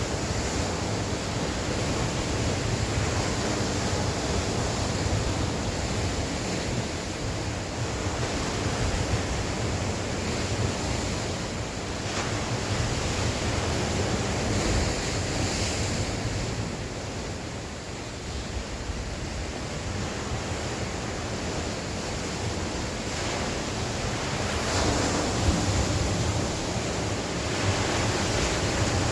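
Sea waves breaking and washing on the shore, a continuous surf rush that swells and ebbs, with wind gusting across the microphone.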